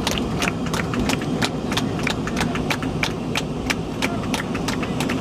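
Airliner cabin noise of a McDonnell Douglas MD-80: a steady low rumble with a fast run of sharp clicks, about five or six a second.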